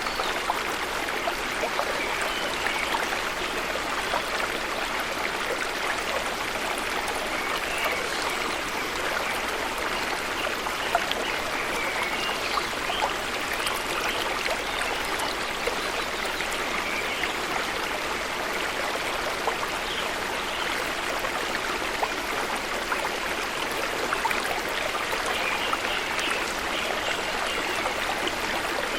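Waterfall water falling and splashing, a steady rush with fine splashes throughout.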